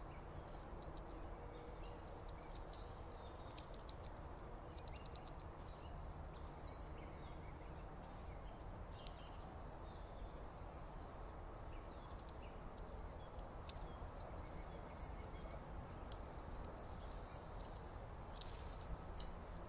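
Small backyard birds chirping faintly and now and then, short calls scattered through, over a steady low background noise.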